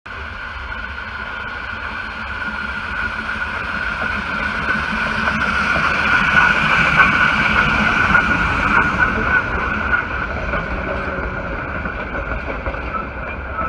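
The 1880 Train passing along the line, a low rumble with a steady high squeal that swells to its loudest about halfway through and then fades.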